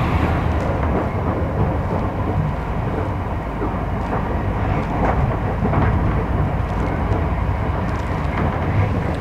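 Passenger train running at speed, heard from inside a carriage: a steady rumble of wheels on rails, with a few faint knocks.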